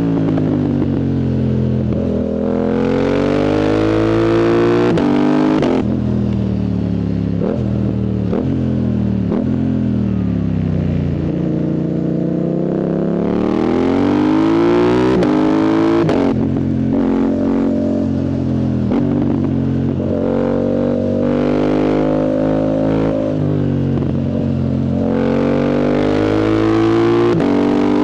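Yamaha MT-07's CP2 parallel-twin engine through a loud full exhaust with the dB killer removed, repeatedly accelerating hard and shifting up with the quickshifter. The engine note climbs, then drops abruptly at each shift, with sharp pops at the shift points. Between pulls it falls away as the throttle closes.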